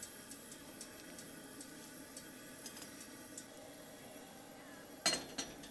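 Campfire crackling, with faint scattered pops from the burning wood, and a short run of louder, sharper cracks or knocks near the end.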